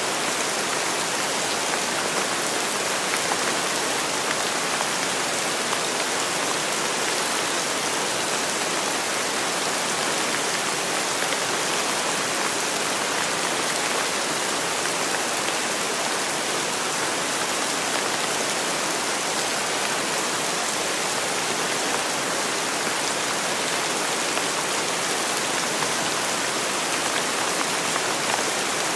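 Steady rainfall, an even hiss of many drops with no single strikes standing out and no thunder.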